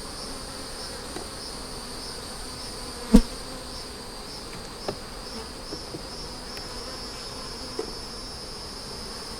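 A steady, high-pitched insect chorus that pulses about twice a second, with one sharp knock about three seconds in and a few light ticks after it.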